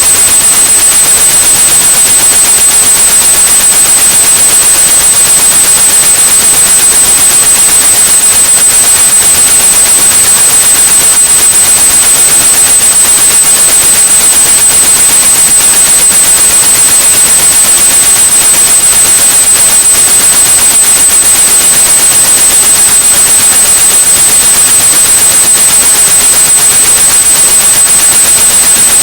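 Synthetic white noise, a steady loud hiss, mixed with a continuous high-pitched 8100 Hz sine tone, played as a tinnitus-masking sound.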